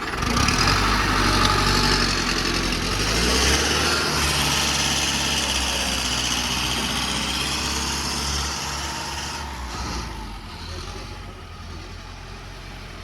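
Tractor engine running hard, loudest over the first several seconds and easing off about ten seconds in.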